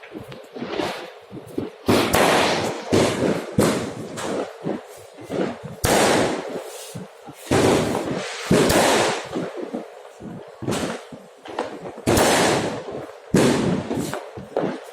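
New Year's fireworks and firecrackers going off: an irregular, overlapping string of loud bangs and crackles, each trailing off with a long echoing decay.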